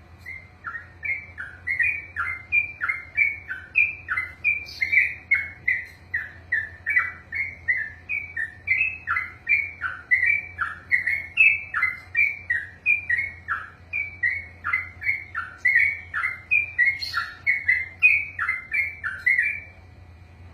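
Yellow-vented bulbul (trucukan) singing a long, unbroken 'ropel' run of quick, repeated falling notes, about two to three a second, that stops shortly before the end.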